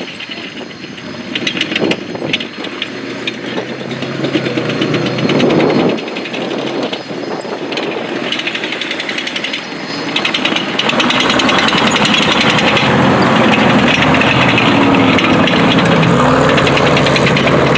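A heavy vehicle's engine running close by with a rapid, rattling pulse, growing louder and deeper about ten seconds in.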